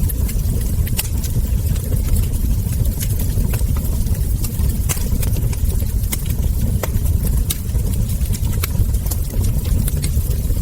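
Wood fire crackling: irregular sharp crackles and ember pops, several each second, over a steady low rumble of the burning fire.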